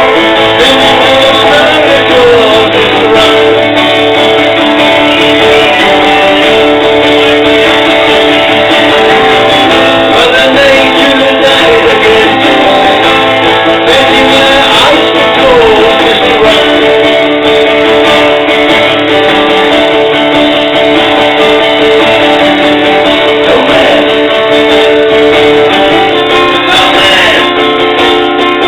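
Live music: strummed guitar with sustained notes and some gliding lines, played steadily and loud throughout.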